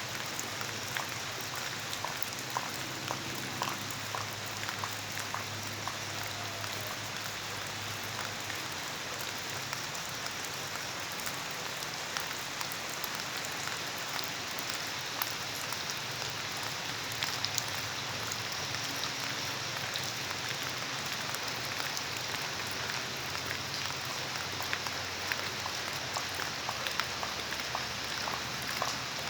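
Steady rain falling, with many small drips and drop ticks against a continuous hiss.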